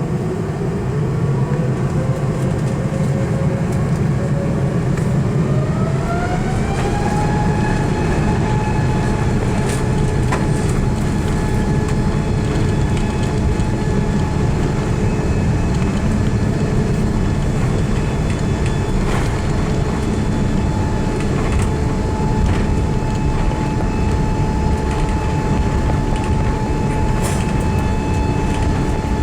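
Airbus A380's Rolls-Royce Trent 900 engines spooling up to take-off power: a whine rises in pitch about five to seven seconds in, then holds steady over a constant loud rumble, as on the take-off roll.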